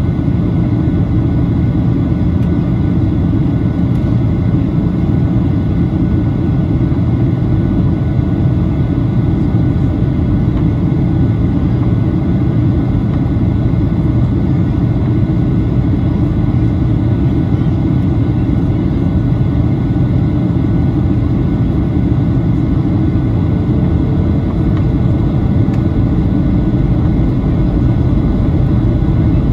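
Steady cabin noise inside a Boeing 737-800 in flight: a deep, even rush of airflow and the CFM56-7B turbofan engines, with faint steady whining tones over it.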